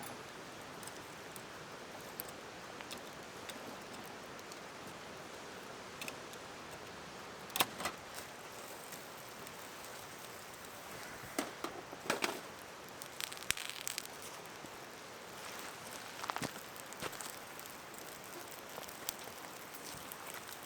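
Steady rush of a mountain stream, with scattered sharp clicks and knocks over it, the loudest about seven and a half and twelve seconds in.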